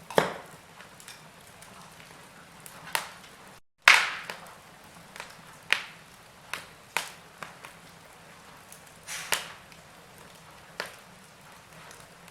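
Wood fire in a fireplace crackling: irregular sharp pops and snaps over a soft steady hiss. The sound cuts out for a split second about a third of the way in, just before the loudest pop.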